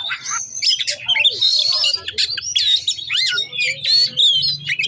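Oriental magpie-robin (kacer) singing hard in a fast, unbroken run of varied whistles, chirps and sweeping notes, its song packed with mimicked calls of other birds.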